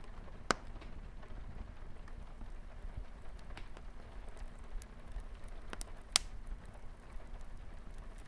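Fireplace crackling with light rain on a window: a steady, soft hiss and rumble of rain under scattered sharp pops and snaps from the burning wood. The two loudest pops come about half a second in and about six seconds in.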